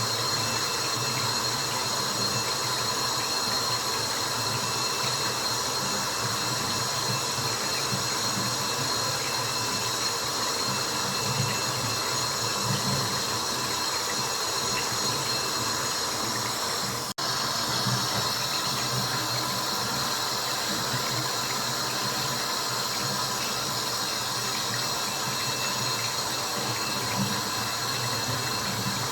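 Steady white-noise track of water drops: a continuous dense wash of dripping and trickling water with no pauses except a brief dropout about 17 seconds in.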